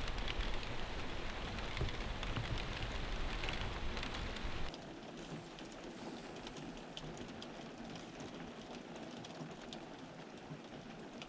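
Steady rain with many small ticks of individual drops landing. About five seconds in it suddenly becomes quieter and duller, then carries on steadily.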